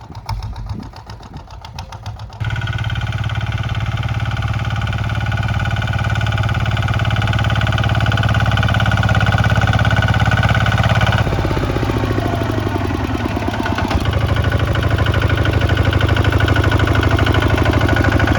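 Kubota ZT 155 single-cylinder diesel engine running, quieter and uneven at first, then abruptly much louder and steady about two seconds in; its tone shifts abruptly twice more later on.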